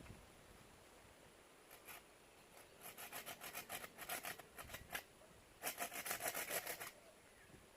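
Wood being worked by hand with quick, even rasping strokes, in two runs of a second or more each with a short pause between.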